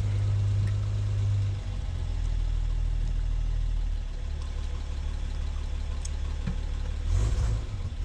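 Rebuilt six-cylinder petrol engine of a 1967 Land Rover Series IIA 109 idling steadily while still cold after a cold start; the idle note shifts slightly a couple of times.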